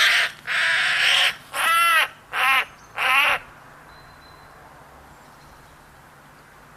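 A bird giving a quick series of five harsh, raspy calls, stopping about three and a half seconds in.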